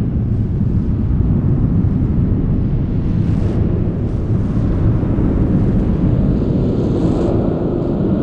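Large steel spring heard through a contact mic: a loud, dense low rumble that holds steady, with short hissing scrapes about three and a half seconds in and again near the end.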